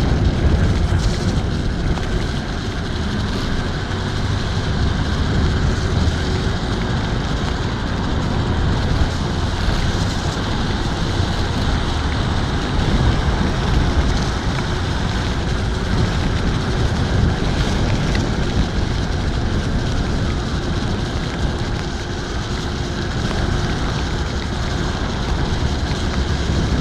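Steady rush of wind over the helmet microphone and tyre noise on wet pavement from a TRBK-M2 electric scooter riding along in the rain.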